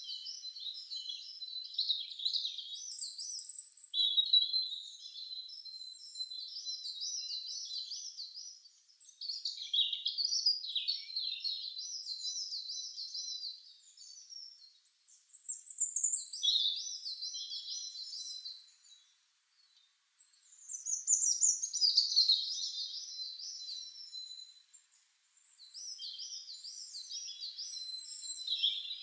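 Songbird singing in repeated high-pitched phrases of rapid warbling trills, each a few seconds long, with short pauses between them.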